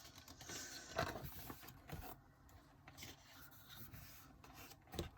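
Glossy photobook pages being turned and handled: soft rubbing and sliding of paper, with a few light ticks, the clearest about a second in and near the end.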